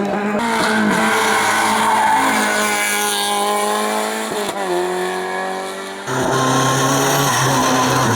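Race car engines running hard up a hillclimb course, the pitch holding, dropping and rising again with the gears, with tyre squeal. The sound changes abruptly a few times, about half a second, four and a half and six seconds in, as it jumps from one car to another.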